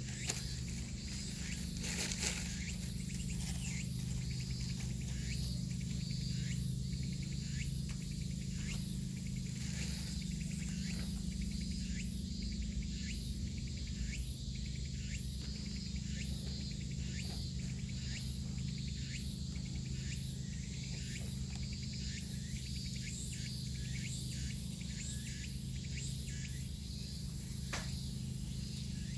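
Insects chirping in an evenly repeating high trill, with scattered faint clicks over a steady low hum.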